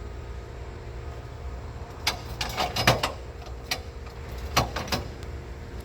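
Engine running at a steady low idle, with a run of sharp knocks and clanks starting about two seconds in.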